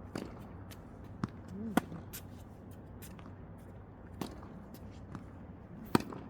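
Tennis balls struck by rackets and bouncing on the court during a rally drill: a handful of sharp pops spread unevenly, the loudest near the end. A brief rising squeak comes just before the third pop.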